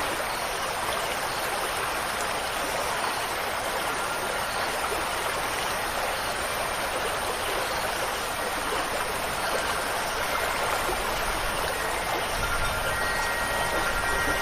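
Steady rush of flowing water, like a stream or heavy rain. Clear, sustained wind-chime tones ring in over it during the last few seconds.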